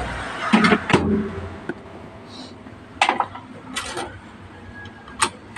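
About five sharp clicks and knocks spread out over a few seconds: a microwave oven being handled as a wet rag is set inside for a test heating.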